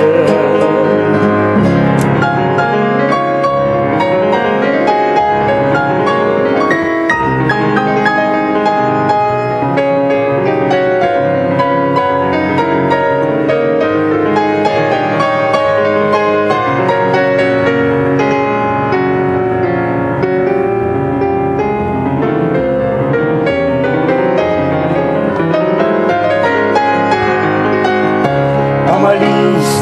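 Instrumental interlude of a bard song, a piano carrying the melody and chords without singing.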